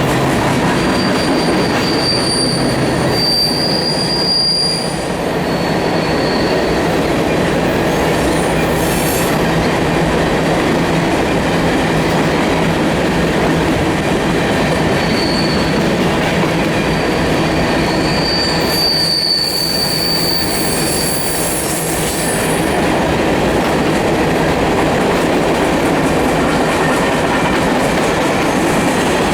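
Loaded freight train of grain cars rolling past at close range: steady wheel-on-rail noise and clatter, with high-pitched wheel squeal rising and fading twice.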